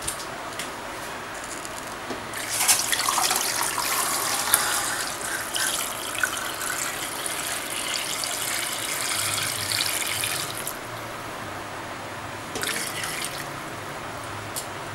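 Water poured from a metal container into a stainless steel pot of raw pork pieces, splashing over the meat as the pot fills. The pour starts about two seconds in and stops after about eight seconds, with a brief second pour near the end.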